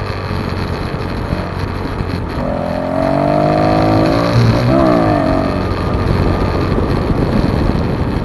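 Small pit bike engine running while riding, with wind buffeting the microphone. From about two and a half seconds in the revs climb, then dip and rise again, and they fall back near five and a half seconds.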